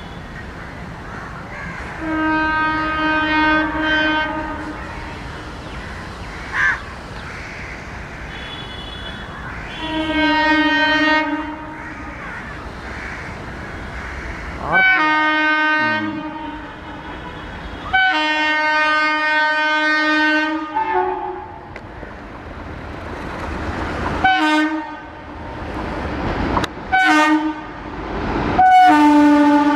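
Horns of WAP7 electric locomotives sounding over the rumble of passing trains: several long blasts of a few seconds each, then a string of short toots near the end.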